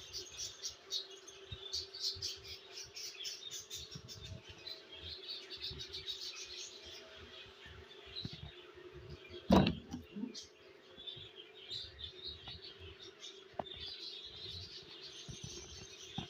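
Small birds chirping rapidly and continuously over a faint steady hum, with one loud knock about halfway through.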